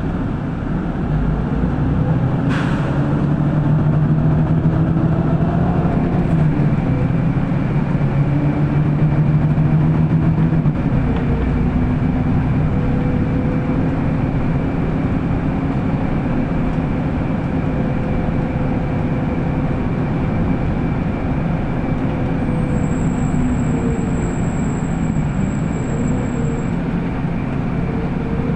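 Inside a moving city bus: steady running and road noise, with a motor whine that rises about four seconds in as it speeds up. A sharp knock comes about two and a half seconds in.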